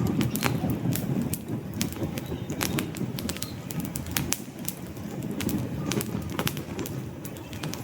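Wood campfire crackling, with frequent sharp irregular pops over a low, fluctuating rumble of burning flames.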